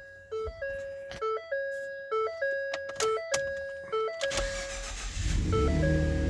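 A sequence of electronic chiming tones with clicks, then the Ford F-150's 3.5 L EcoBoost twin-turbo V6 cranks and catches about four to five seconds in and settles into a steady idle, running on its new spark plugs.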